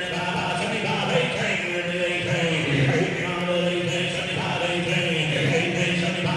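Auctioneer's rapid, sing-song bid-calling chant, running continuously as bids are taken on a car.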